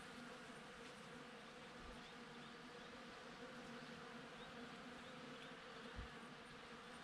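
Honeybees buzzing as they forage at the blossoms: a faint, steady hum.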